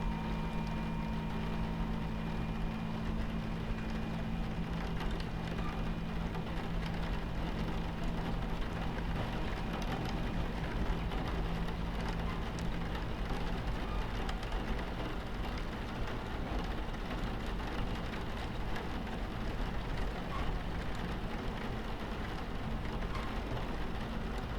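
Train cabin ambience: the steady low rumble and hum of a train running, with rain pattering on the window.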